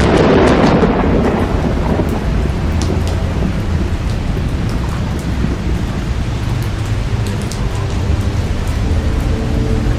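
Steady rain with scattered drop clicks, and a thunderclap right at the start that fades away over about two seconds.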